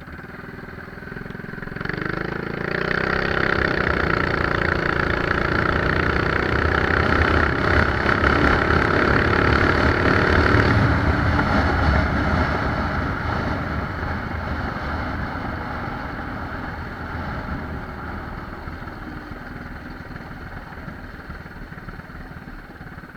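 Mini bike engine pulling at full throttle from about two seconds in, its pitch climbing steadily as the bike gathers speed. A little before halfway the throttle is released and the engine note drops away while the bike coasts, the noise fading.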